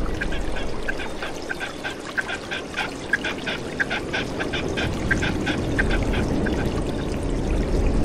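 A bird calling in a fast series of short, repeated nasal notes, several a second, stopping about six seconds in, over a stream running steadily.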